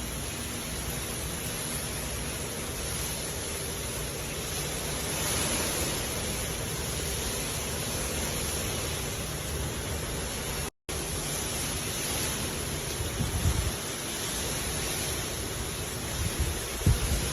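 Hard rain falling steadily, an even hiss. The sound cuts out completely for an instant a little past halfway, and a few low thumps come near the end.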